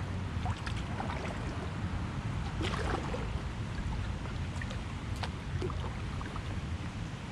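Water splashing and trickling around a kayak as it is paddled, with scattered small splashes over a steady low rumble.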